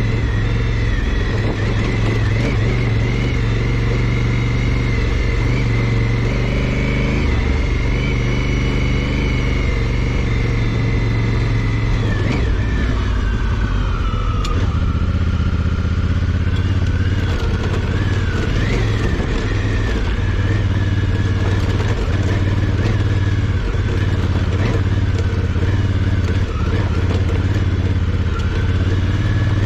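Honda CRF1000L Africa Twin's parallel-twin engine running as the bike is ridden on a dirt trail. The engine pitch eases off in the middle and climbs again near the end, with scattered knocks and rattles.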